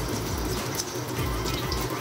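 Flour-coated baby corn pieces sizzling in a thin layer of oil in a wok, with a steady patter of fine crackles as the coating fries crisp. Soft background music runs underneath.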